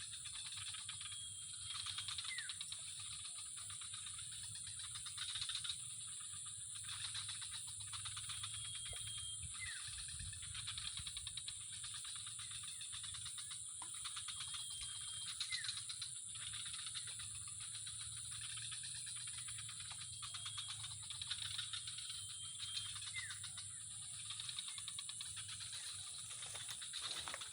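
Outdoor insect chorus: a steady high-pitched drone with a pulsing, rasping trill beneath it, and a short faint call repeating every few seconds.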